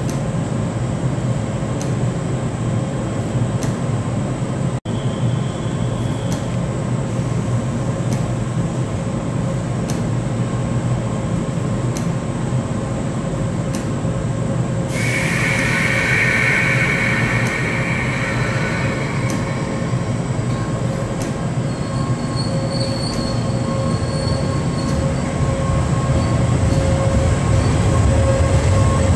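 JR 381-series electric express train standing at the platform with a steady hum from its onboard equipment, a hiss lasting several seconds about halfway through, then pulling away, its running noise growing louder near the end.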